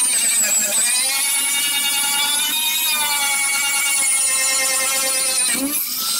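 Electric grinder with a sanding pad running steadily with a high whine. Its pitch sags and recovers slightly as it is pressed into the work, and it dips briefly near the end.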